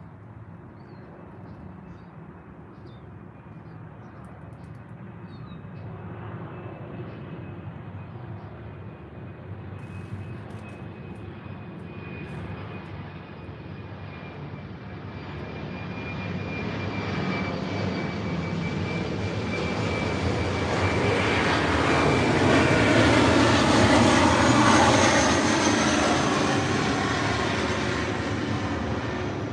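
An aircraft flying over. Its engine rumble swells gradually to its loudest about 24 seconds in and then starts to fade, with a thin whine drifting slightly lower in pitch as it passes.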